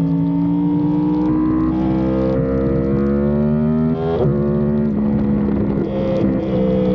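Yamaha R1M superbike's crossplane inline-four through an SC Project exhaust, pulling under throttle with its pitch climbing for about four seconds, then dropping sharply at a gear change and running on at a steadier pitch.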